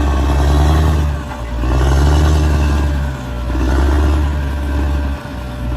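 Large bulldozer's diesel engine running with a deep, steady note that briefly dips in loudness three times, about every two seconds.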